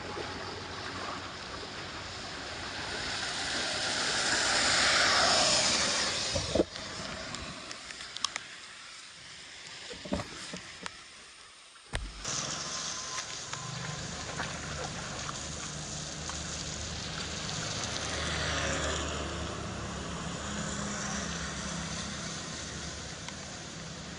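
Floodwater rushing through a freshly unblocked drain, a steady rushing roar that swells about five seconds in. It thins out with a few sharp knocks near the middle, then comes back steady after an abrupt change.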